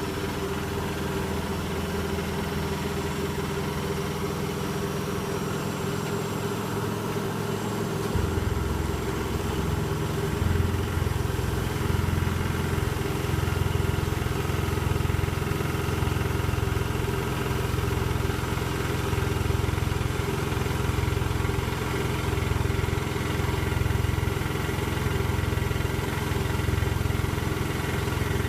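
Electrolux W455H commercial washing machine running a steady mechanical hum. About eight seconds in, a deeper rumble comes in and swells and fades at an even rhythm, as the drum spins up.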